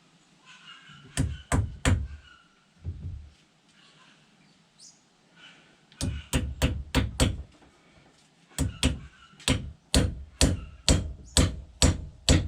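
Hammer blows driving a small round wooden wedge into the top of a new wooden handle fitted in a block-splitting maul head, to spread the handle tight in the eye. Three blows come about a second in, then a steady run of sharp knocks about two a second through the second half.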